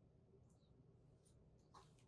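Near silence: faint room tone with a few soft, faint ticks and rustles.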